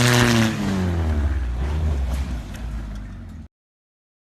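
Car engine revving over road and tyre noise: its pitch dips, climbs again, then drops away, and the sound cuts off abruptly about three and a half seconds in.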